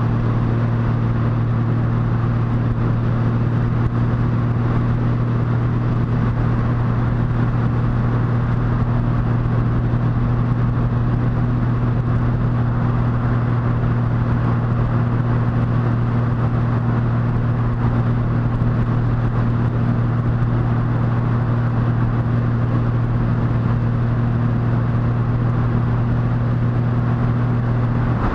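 Motorcycle engine running at a steady cruising speed, its hum holding one even pitch, with wind and road noise over the ride.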